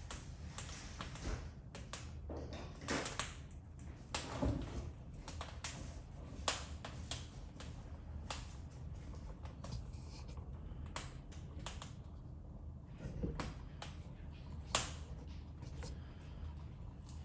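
Wood logs burning in a fireplace, crackling with irregular sharp pops over a low steady rumble.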